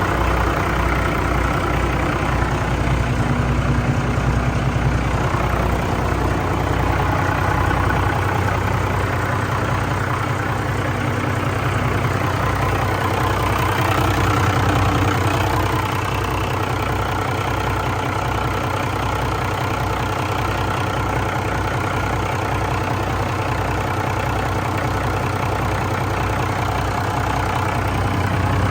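Remanufactured Cummins 6CTA8.3M3 marine inline-six turbodiesel running steadily on its first run after the rebuild.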